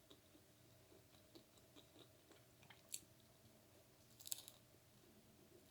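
Faint chewing and mouth sounds of someone eating, with a sharp click about three seconds in and a short cluster of clicks a little past four seconds, the loudest moment.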